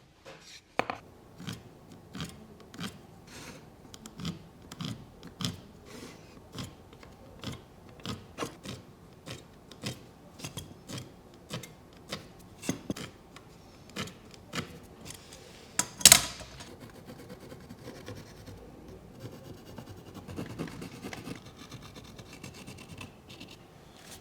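Marking tool scratching across soft cedar in repeated short strokes, about one or two a second, while the base and edge are marked out together for joinery. A sharp click comes about sixteen seconds in, followed by finer, steadier scratching.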